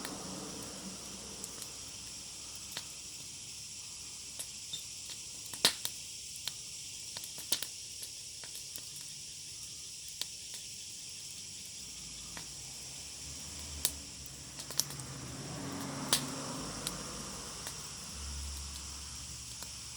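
Wood fire crackling, with scattered sharp pops and snaps; the loudest pop comes about six seconds in, and a few more come between fourteen and seventeen seconds.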